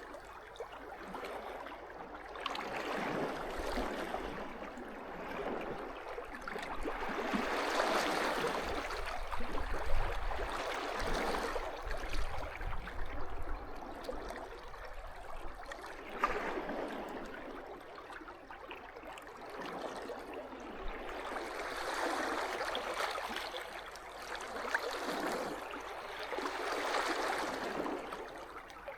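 Small sea waves washing up on the shore and drawing back, the wash swelling and fading every few seconds. There are a couple of brief sharp clicks, about ten and sixteen seconds in.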